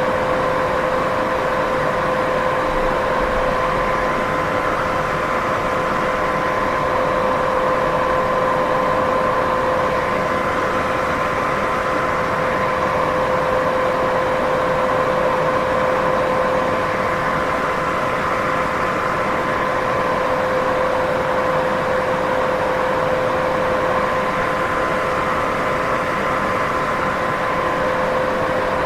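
Steady sleep-aid white noise: an even, unchanging hiss, fuller in the middle of the range than at the top or bottom, with two faint steady tones running through it.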